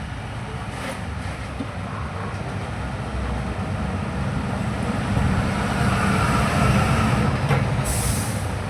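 A vehicle passing, a low steady noise that swells about halfway through and eases off near the end, with a brief hiss shortly before the end.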